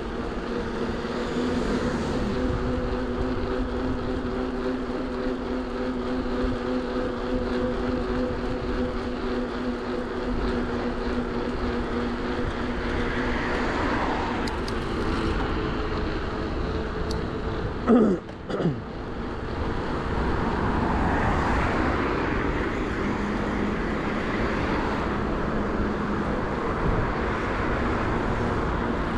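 Wind and road noise from riding a bicycle along a road with motor traffic, a vehicle engine humming steadily alongside for the first half. A short falling squeal cuts through about 18 seconds in.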